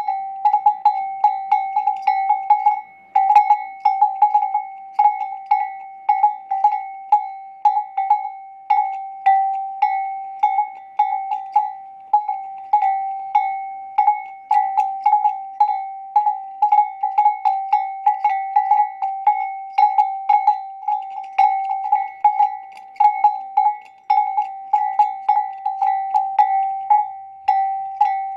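A metal bell ringing, struck over and over at an uneven pace of about two to three clangs a second, its one steady tone never dying away between strikes, typical of a bell hung on a camel's neck as the animal moves.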